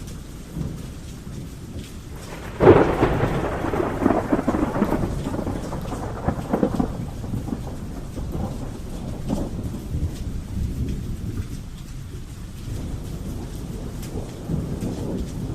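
Thunderstorm with steady rain and low rolling thunder; a sharp thunderclap cracks about two and a half seconds in and crackles for several seconds before dying back to a rumble, which swells again near the end.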